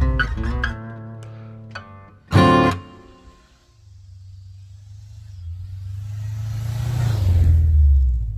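Acoustic guitar music, plucked notes ending on one loud strummed chord about two and a half seconds in. Then a low rumble swells steadily louder and cuts off abruptly at the end.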